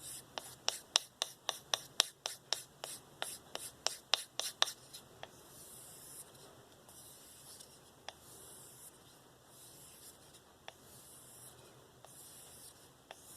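S30V knife blade stropped on a balsa strop loaded with 2.5 micron diamond paste. For the first few seconds there are quick alternating strokes with a sharp tick on each, about two to three a second, then slower, softer brushing strokes.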